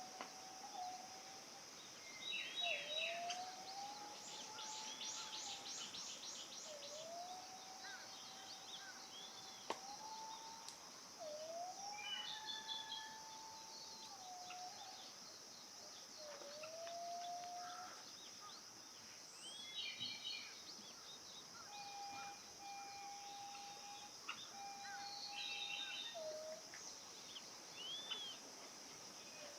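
Ryukyu robin singing short, high, trilled phrases every few seconds. Throughout, another bird repeats a low whistle that rises and then holds level, about every three seconds, over a steady high hiss.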